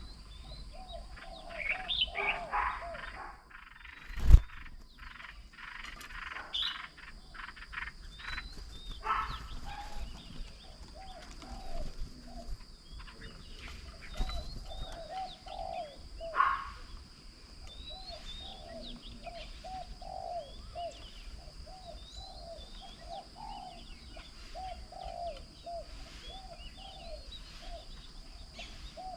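Several birds calling and chirping, with a long run of repeated short low calls in the second half. One sharp loud knock about four seconds in.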